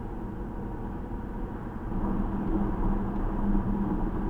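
Car driving on a highway, heard inside the cabin: a steady low rumble of engine and road noise that grows louder about two seconds in, with a steady hum coming up.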